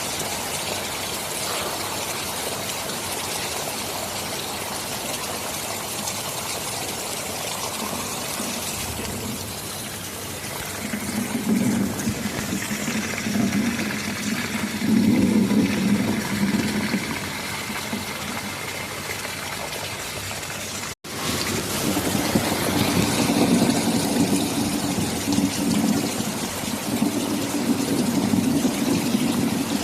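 Heavy rain falling as an even hiss, with low rolling thunder rumbling in about a third of the way through and again through the second half. The sound drops out for an instant about two-thirds of the way in.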